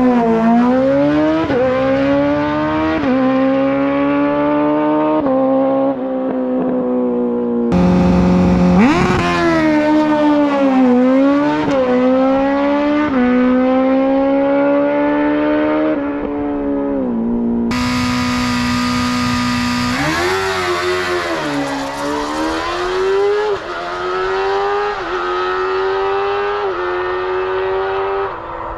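Sport motorcycle engines at full throttle on drag strip passes. The pitch climbs and drops at each quick upshift, several shifts in a row per run, and the sound cuts abruptly to a fresh run twice.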